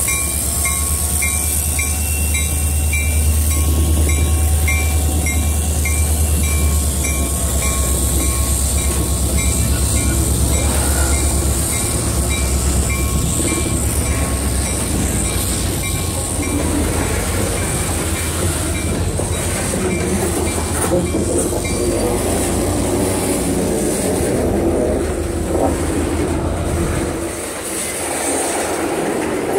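Freight cars rolling slowly past at switching speed, their wheels clicking over rail joints. For the first half the low drone of an EMD GP40-2 diesel locomotive is heard, fading as it draws away. A high, regular ding about twice a second runs through the first twenty seconds and then stops.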